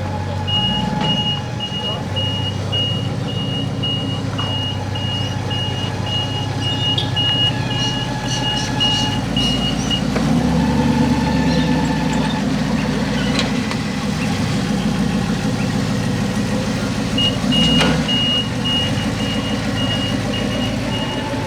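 Engines of hot rods and muscle cars, mostly V8s, rumbling as they drive past at low speed. A high electronic beep repeats about twice a second for the first half and comes back near the end.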